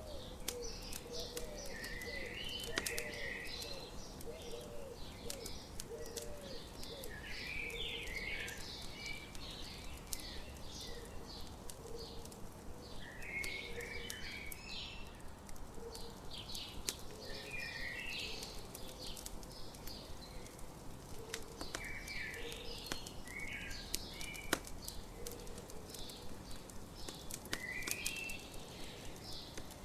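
Birds singing in short repeated phrases every few seconds, with a run of low repeated call notes in the first part, over a campfire crackling with scattered sharp pops.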